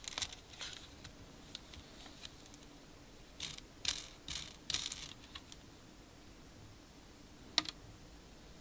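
Scattered clicks and short rustles of a boxed electronic device and its packaging being handled, with a cluster of rustles in the middle and a single sharp click near the end.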